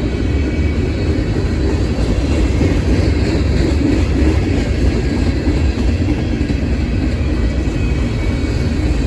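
A train passing close by, with a steady, loud low rumble.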